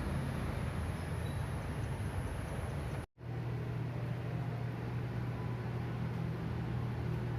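A steady low rumble, cut off to silence for a split second about three seconds in and then going on as a steadier low hum.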